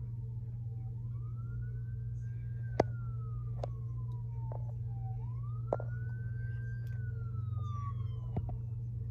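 Siren wailing: each cycle rises quickly in pitch and then slides slowly down, about two cycles, over a steady low hum, with a few sharp clicks.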